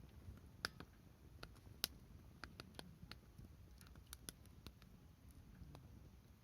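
Wood fire burning in a fire pit, crackling faintly with irregular sharp pops and ticks, the loudest about two seconds in, over a low rumble.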